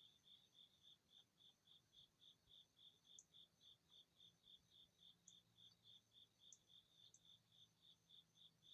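A cricket chirping steadily at about three to four chirps a second, faint, with a few brief high ticks and a low hum underneath.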